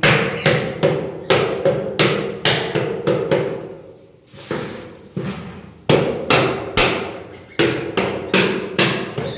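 Hammer blows struck in a quick series, about two a second, with a short break near the middle, each knock ringing briefly, as a bird breeding box is hammered into place.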